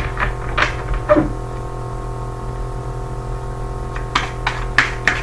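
Soft, steady background music drone, with a few light knocks and taps from objects being handled: three early on and a quicker run near the end.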